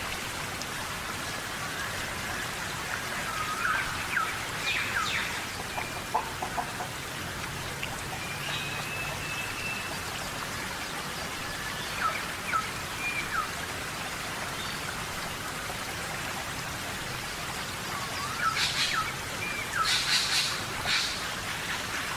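Steady rain falling in a tropical rainforest, with birds calling now and then over it: short whistled swoops and chirps, in bursts about a third of the way in and again near the end.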